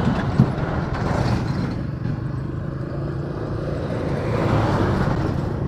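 Single-cylinder Suzuki Gixxer motorcycle engine running while riding, mixed with steady road and wind noise.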